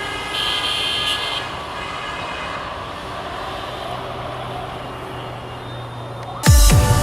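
Diesel-hauled passenger train running by with a steady rumble, and a brief high tone about half a second in. About six and a half seconds in, a sudden loud hit with a falling sweep cuts in as music starts.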